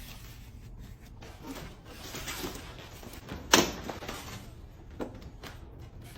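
Rustling and handling noises, with one sharp knock about three and a half seconds in and a smaller click later.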